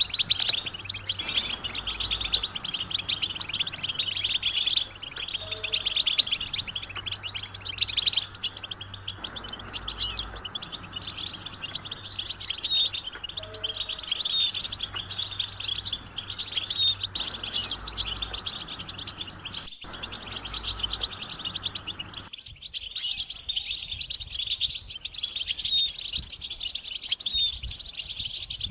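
A group of European goldfinches chattering and twittering without a break, in a dense run of quick, high calls and song phrases; the kind of collective chatter used to stimulate male goldfinches to sing.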